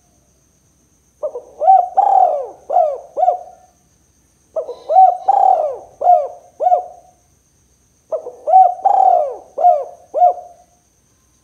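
Spotted dove (tekukur) cooing: three phrases of about five notes each, a couple of seconds apart, every note a short arching coo.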